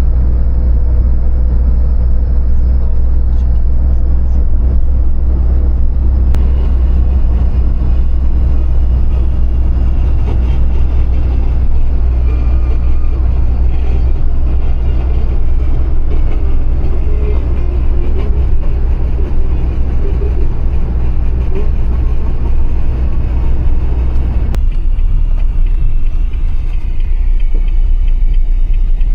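Steady motor-vehicle driving noise: a deep, continuous engine and road drone with a hiss of tyres and wind above it, easing slightly near the end.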